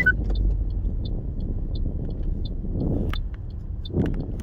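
Car interior on the move: steady low road and engine rumble with a light, even ticking two to three times a second, and two brief swells of noise about three and four seconds in.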